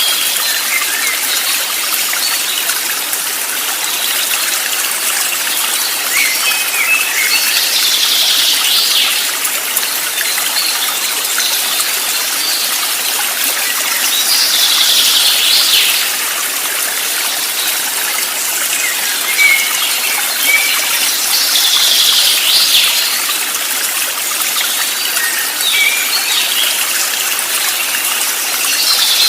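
Water running steadily in a stream. A bird sings a short phrase of about a second and a half roughly every seven seconds, with a few thin chirps in between.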